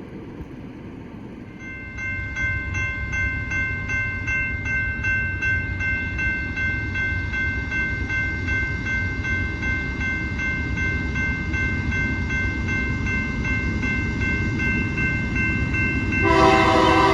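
A railroad crossing bell rings steadily while a train's diesel rumble comes in from about two seconds in. Near the end a locomotive air horn blasts loudly.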